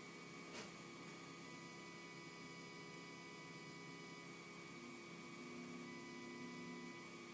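Faint steady electrical hum and hiss with a few thin steady whining tones, and one light click about half a second in.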